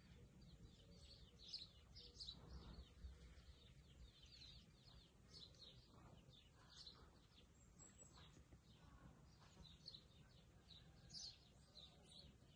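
Faint songbirds chirping: many short, high chirps in quick succession throughout, over a low, steady rumble.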